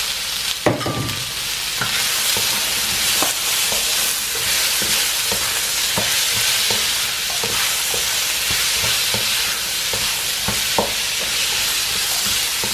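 Onions and minced garlic sizzling in oil in a wok, with a steady frying hiss, while a spatula stirs them and knocks against the pan in short clicks every second or so, the sharpest about a second in.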